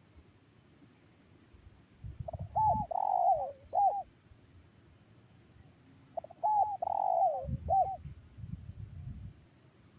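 A spotted dove cooing: two call phrases about four seconds apart, each a short run of rising and falling coos. A low rumble sounds under each phrase.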